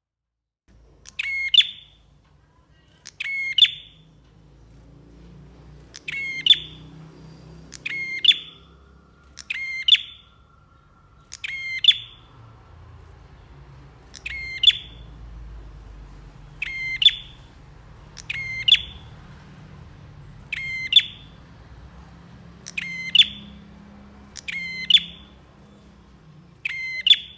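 Prenjak (prinia) songbird calling over and over: about thirteen short, sharp, rapid chattering calls, roughly one every two seconds, over a faint low rumble.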